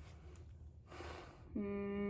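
A breath, then a short closed-mouth hum ("mmm") held on one steady pitch for under a second near the end.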